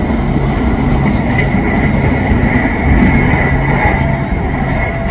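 A passenger train running past at close range, its wheels rumbling steadily on the track, with a thin high squeal from the wheels throughout.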